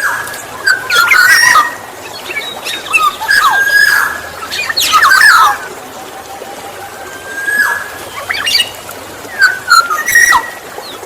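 Black-naped oriole (golden oriole) singing in repeated phrases every couple of seconds: a short held whistle that breaks into a quick run of sharper, sliding notes.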